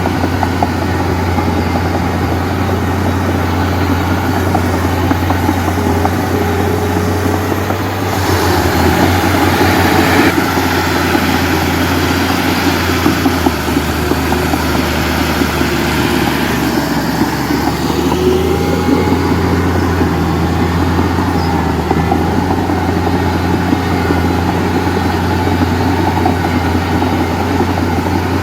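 Heavy diesel engine running steadily, with a louder, harder-working stretch lasting a couple of seconds about eight seconds in.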